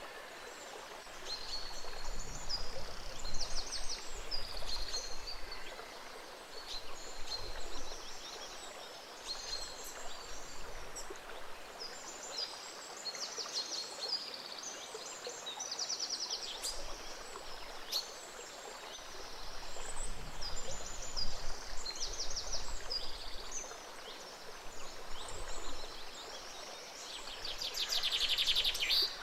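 A gentle stream flowing steadily, with small birds singing and chirping over it in frequent short calls and quick trills. The loudest trill comes near the end.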